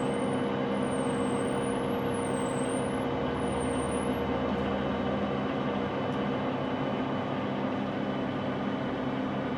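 Steady machine running noise with a constant hum and an even level throughout.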